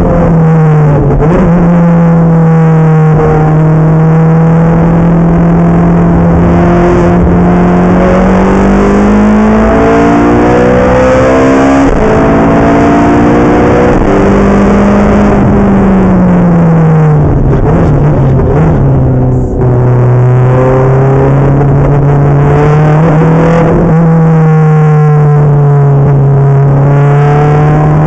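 Ferrari F430 F1's V8 engine, heard loud from inside the cabin, running hard on track. Its note climbs and falls several times as the car accelerates and slows, dropping low and briefly quieter a little after two-thirds of the way through before climbing again.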